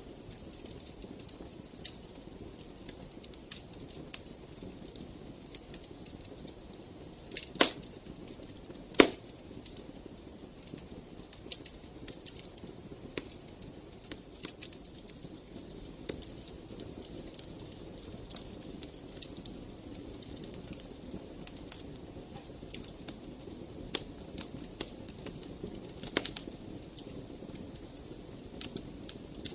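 Wood fire burning in a fireplace: a steady low rumble of flames with scattered crackles, and two sharp louder pops a little over a second apart about a quarter of the way in.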